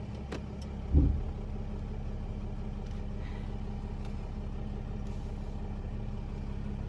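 Vehicle engine running steadily at low speed while the rig is maneuvered into a parking spot, with a single loud low thump about a second in.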